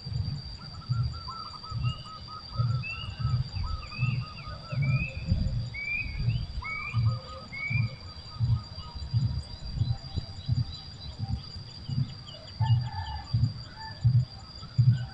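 Birds calling: a run of short rising chirps and a few trilling calls, mostly in the first half, over a steady high-pitched tone. Under them runs a regular low thumping, about one and a half beats a second, which is the loudest part.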